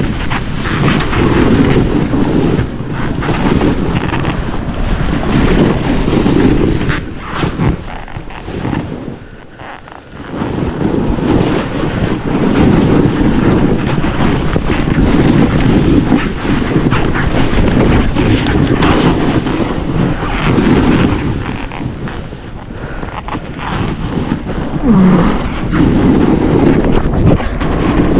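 Wind buffeting the camera microphone and a snowboard running through snow during a fast descent. The noise swells and falls unevenly and briefly drops away about ten seconds in.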